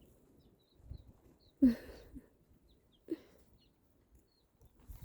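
Baby chicks peeping faintly, scattered short high chirps, with a louder short thump about one and a half seconds in and a smaller one about three seconds in.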